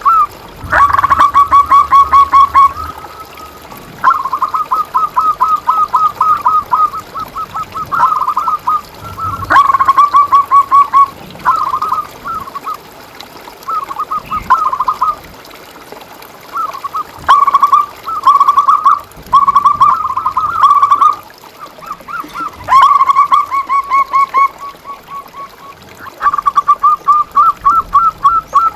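Zebra doves (perkutut) singing: rapid staccato cooing trills around a steady pitch, phrase after phrase with short pauses between.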